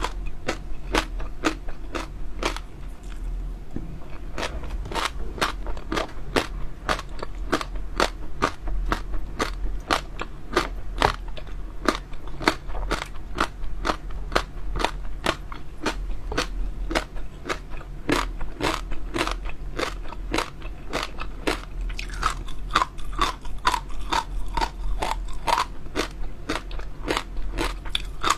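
Close-miked crunchy chewing of jelly popping pearls: a steady run of sharp, crackling crunches, several a second.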